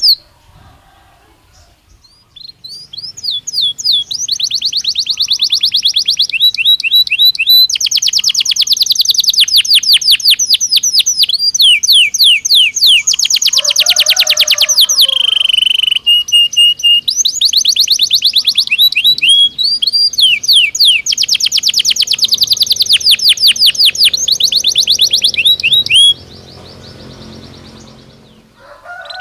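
Belgian canary singing a long song of rapid trills, each a fast run of repeated high notes, with a brief lower buzzy trill about halfway through. The song starts about two seconds in and stops a few seconds before the end.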